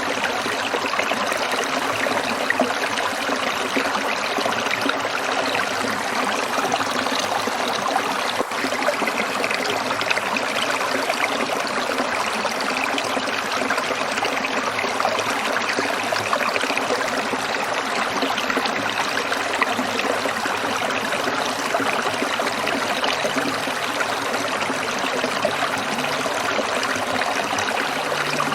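Small stream trickling and splashing over stones in a steady, even flow.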